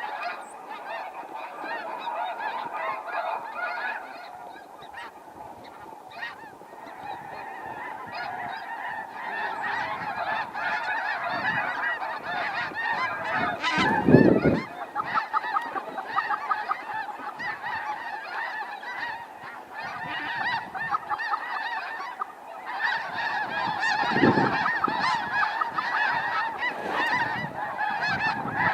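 A large flock of snow geese calling, a dense, unbroken chorus of high honks. There is a loud thump about 14 seconds in and a smaller one about 24 seconds in.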